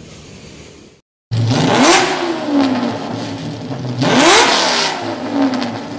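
After about a second of low background hum, a car engine sound effect comes in: the engine revs up sharply twice, about two and a half seconds apart, each time dropping back slowly.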